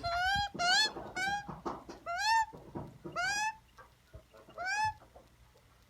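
A magpie giving a series of short, rising squawking calls, about six of them roughly once a second, in the repetitive way of a young bird begging.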